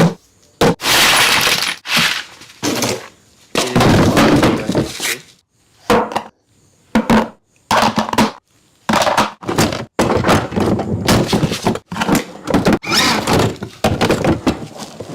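Irregular clatter of parts being handled and fitted together while a car is assembled and its tyres put on: sharp knocks and clicks mixed with longer scraping and rustling, with short pauses between.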